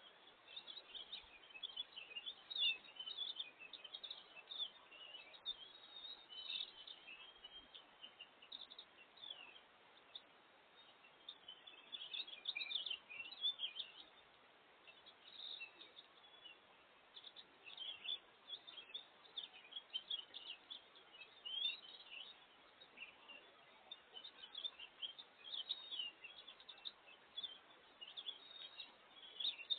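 Small songbirds chirping and twittering: many quick high chirps in clusters, one after another, over a faint steady background hiss.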